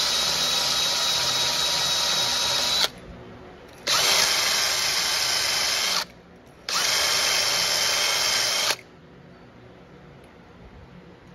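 Power drill spinning a wire brush, scrubbing carbon off a piston top, run in three bursts of about two seconds each with short pauses between them, then stopping about two thirds of the way through.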